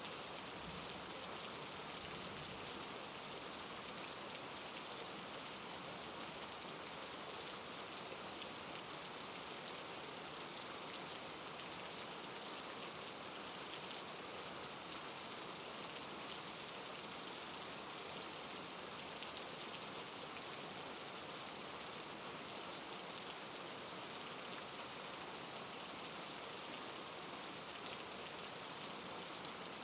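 Steady soft rain falling on a surface, an even hiss with fine scattered drop patter, holding level throughout.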